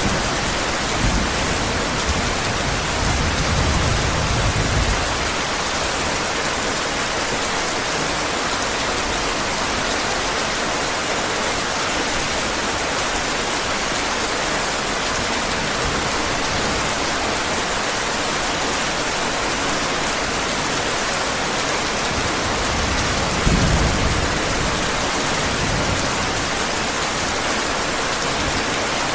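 Steady heavy rain, with low rumbles of thunder in the first few seconds and again about three-quarters of the way through.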